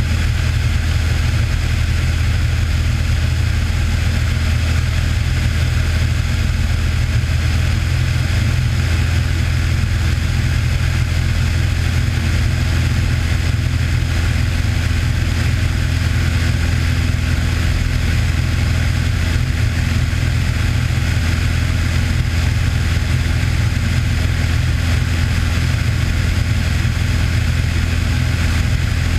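Cessna 182's piston engine and propeller running at a steady power setting in flight, a loud, unchanging low drone.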